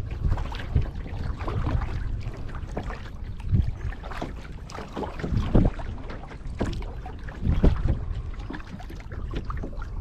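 Kayak paddling on a lake: the paddle blades dip and pull through the water in irregular strokes, with three louder splashes spaced about two seconds apart.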